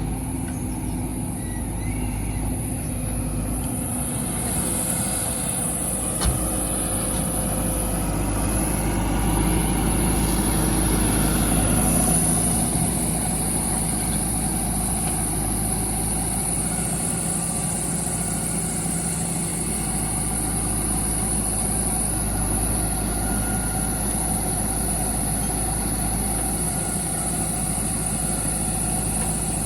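Heavy diesel engine running steadily, its level rising a little around ten to twelve seconds in, with a single sharp knock about six seconds in.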